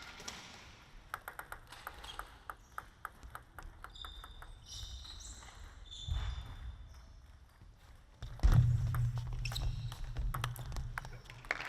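Table tennis ball clicking again and again, struck and bounced on the table and bats, with a few high squeaks around the middle. About eight seconds in a loud low hum comes in suddenly.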